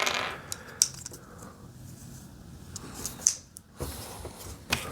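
Small plastic Lego pieces being handled and fitted, giving a few light, scattered clicks.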